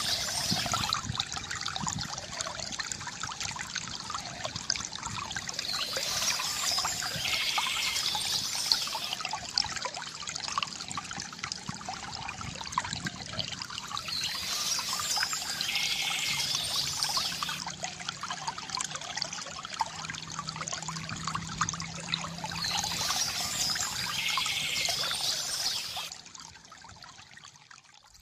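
Water trickling and splashing steadily from a bamboo fountain, with a gurgling pour. It drops away sharply near the end.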